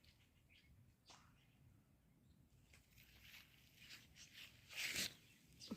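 Near silence, with a brief faint rustling noise about five seconds in and a short click near the end.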